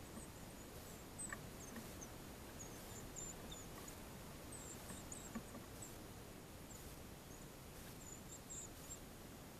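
Faint high bird chirps, many short scattered notes, over a steady low background hiss, with an occasional soft tap.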